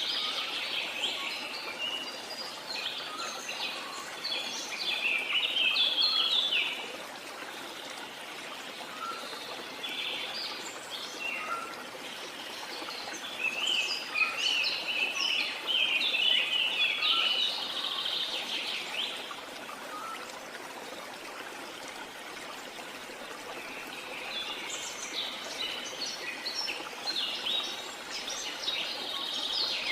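Birds chirping and singing in spells of rapid calls over a steady rush of running water from a jungle waterfall. The bird calls thin out for a few seconds between spells, while the water runs on.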